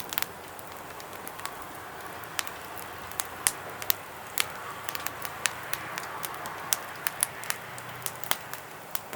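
Wood fire crackling in a small camp fire stand: irregular sharp pops, about one or two a second, over a soft steady hiss.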